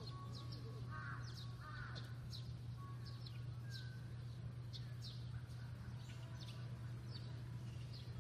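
Small birds chirping, short high falling chirps a few times a second, with two harsher calls about one and two seconds in, over a steady low hum.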